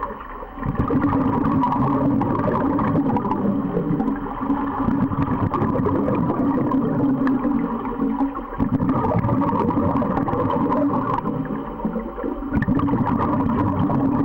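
Underwater sound of scuba diving: dense bubbling and gurgling from a diver's regulator exhaust over a steady low rumble, easing off briefly a few times between breaths.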